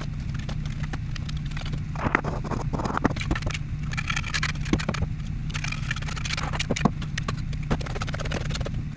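A machine running with a steady low hum, under many irregular taps, knocks and scrapes of hand work.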